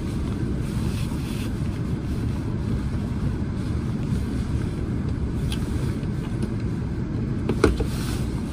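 Steady low rumble of a moving passenger train, heard from inside the carriage, with a single clunk near the end.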